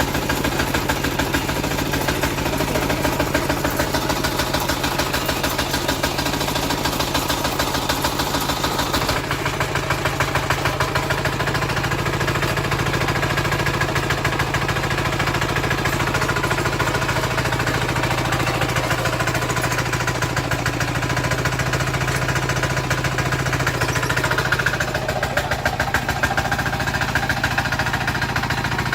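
An engine running steadily at an even speed, with a fast regular pulsing. Some of the high hiss drops away about nine seconds in.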